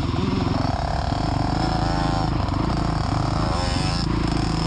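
Dirt bike engines running on a motocross track, a steady low engine note with a higher engine pitch that rises and falls several times as the throttle opens and closes.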